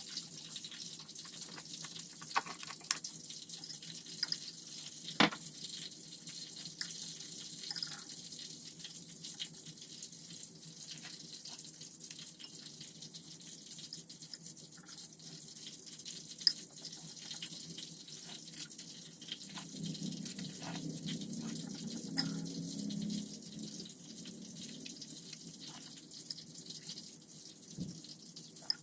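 Water running from a kitchen tap into a sink, a steady splashing hiss broken by many small clicks and clinks of things handled in the water. It grows fuller and lower for a few seconds about two-thirds of the way in.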